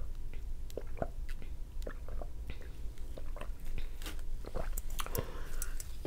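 A person chewing a mouthful of cheeseburger, with irregular wet smacks and small mouth clicks.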